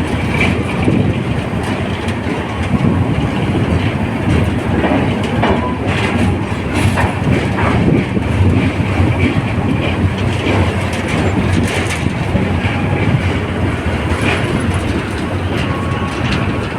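Train running steadily, its wheels clattering over the rail joints with a continuous low rumble.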